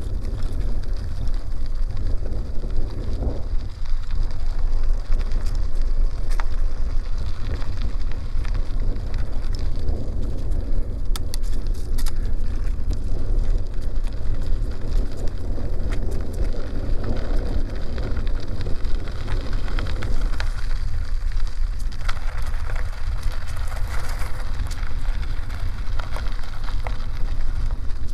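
Bicycle tyres rolling and crackling over a dirt and gravel road, with scattered small clicks from grit under the tyres, and wind rumbling on the microphone.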